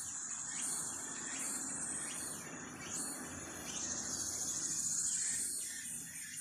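Insects buzzing high and steady with a few short bird chirps, over a steady rushing noise that cuts off suddenly at the end.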